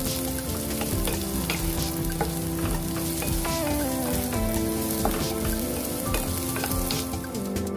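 Sliced onion and garlic sizzling in hot oil in a nonstick frying pan, being sautéed until translucent, with a wooden spatula stirring and scraping through them. Soft background music with held, stepping notes plays along.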